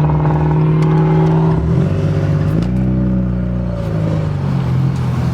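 Car engine with an aftermarket air intake, running hard under acceleration. Its steady pitch drops about two seconds in, as at a gear change, then picks up again and eases off about four seconds in.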